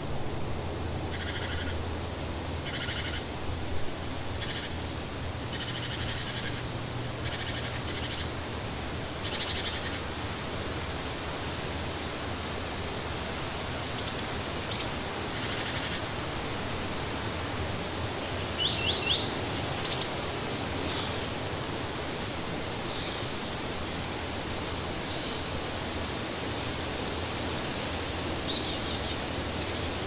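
Forest ambience: a steady hiss of background noise with birds calling and chirping over it. One bird repeats a short call about every second and a half for the first ten seconds or so, then scattered chirps follow, with a quick run of three chirps and a louder call around twenty seconds in and another burst of chirping near the end.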